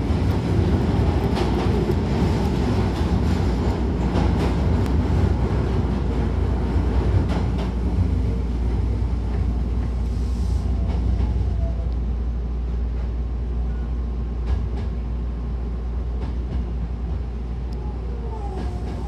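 Hankyu electric train heard from inside the passenger car: a steady low rumble of wheels on rail with scattered clicks, slowly getting quieter as the train slows into its terminal stop. A faint wavering whine comes in near the end.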